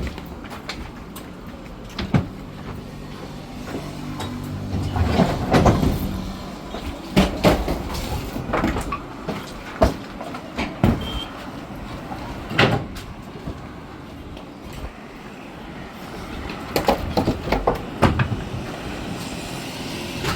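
Kia truck driving on a rough off-road track in a low gear, heard from inside the cab: a steady low engine drone with repeated knocks and rattles as the truck jolts over bumps.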